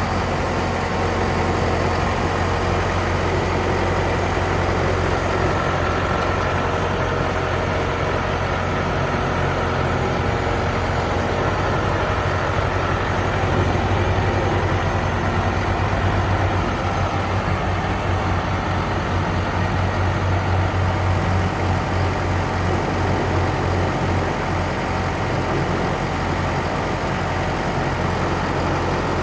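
Case IH Vestrum 130 tractor's diesel engine running steadily at idle, with a deep low hum.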